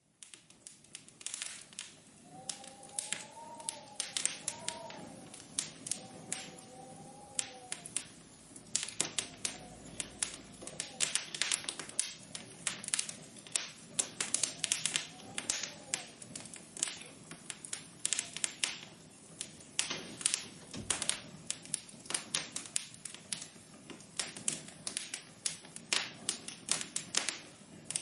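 Wood fire crackling: a steady run of sharp pops and snaps over a soft hiss. A faint wavering whistle comes in from about two to eight seconds in and again around fifteen seconds.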